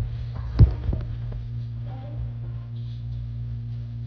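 A steady low hum, with one soft knock just over half a second in.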